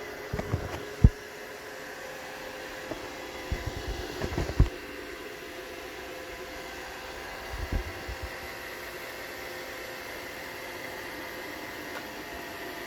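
Roomba robot vacuum running with a steady motor hum, broken by low knocks: a sharp one about a second in, a cluster around four seconds in, and a few more near eight seconds. The knocks come as it bumps about during repeated failed attempts to dock.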